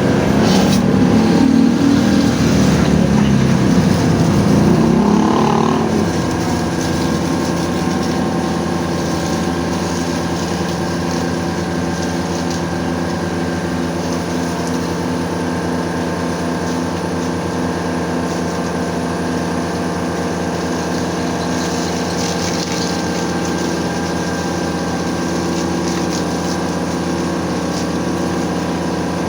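Pressure washer's pump motor running steadily. For about the first six seconds it is louder and rougher, then it settles into an even, droning hum.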